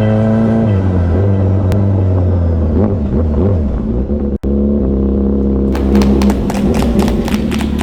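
Motorcycle engine running at high revs, its pitch dropping sharply about a second in and then wavering; after a brief cut about four and a half seconds in it holds a steadier note, with a quick run of sharp clicks or knocks near the end.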